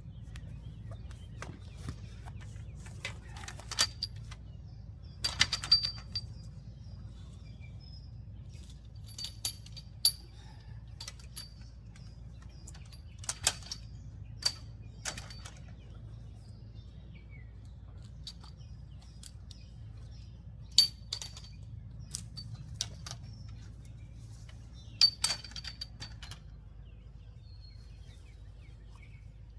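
Scattered sharp clinks with a brief bright ring, often in twos or threes every few seconds, as trampoline net poles and their fittings are handled and set in place. A low steady rumble runs underneath.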